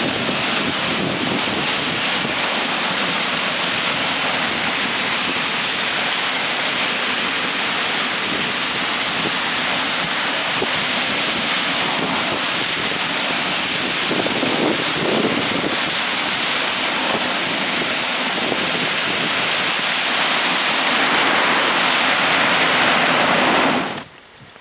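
Steady, loud rushing noise, a little louder for a few seconds before it cuts off suddenly near the end.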